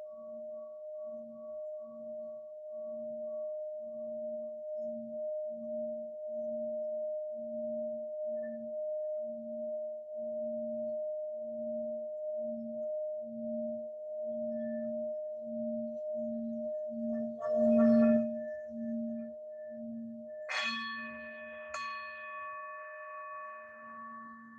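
Singing bowl sounding a steady ringing tone over a lower hum that pulses about twice a second. About 18 s in there is a loud knock, and a few seconds later the bowl is struck twice and rings brighter, with higher overtones that slowly fade.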